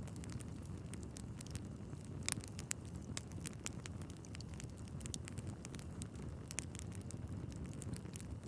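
Wood fire burning in a fireplace: a steady low rumble of flames with frequent sharp crackles and pops from the logs. Two pops, about two seconds in and near six and a half seconds, are the loudest.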